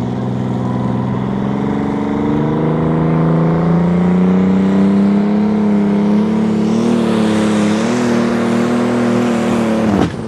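Limited Super Stock pulling tractor's engine running loud under load, climbing in pitch about two seconds in and then holding high with small wavers. Near the end it cuts off suddenly with a sharp crack.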